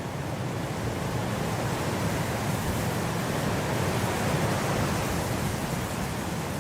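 Blizzard wind blowing as a steady rushing noise, swelling a little over the first few seconds and easing slightly near the end.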